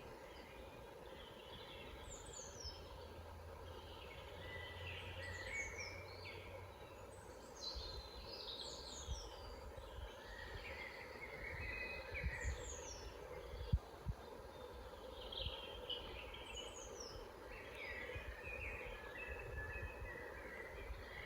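Forest songbirds singing: phrases of chirps and short, high, descending whistles repeat every second or two over a steady low rumble. Two brief low thumps about two-thirds of the way through.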